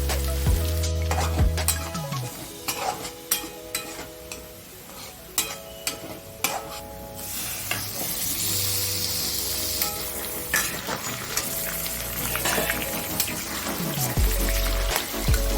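Chicken masala sizzling in a kadai while it is stirred, with frequent sharp scrapes and knocks against the pan. The frying hiss swells louder about eight seconds in.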